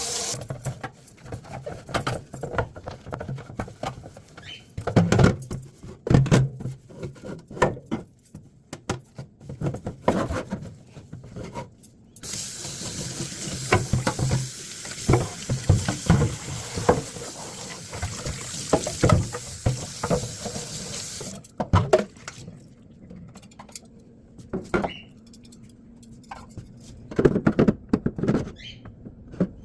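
A refrigerator shelf being handled and washed at a kitchen sink: scattered knocks and clatter throughout, with the tap running steadily for about nine seconds in the middle.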